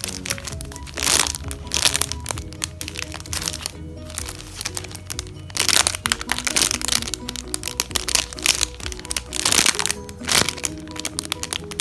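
Background music with a steady run of notes, over which plastic crinkles and crackles in short bursts, about half a dozen times, as squishy toys are handled and squeezed.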